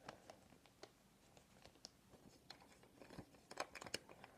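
Faint crinkling and crisp ticks of a sheet of paper being folded and creased by hand, with a cluster of sharper crackles about three and a half seconds in.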